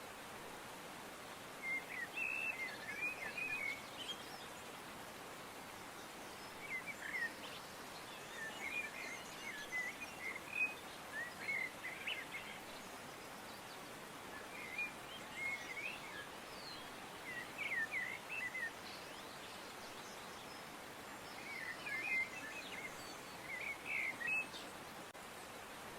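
Small birds chirping in short clusters of quick high notes, a few seconds apart, over a steady background hiss.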